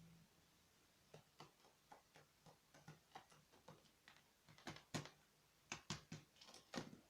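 Magpie striking a spider with its beak: a run of sharp, irregular taps, harder and closer together from about four seconds in.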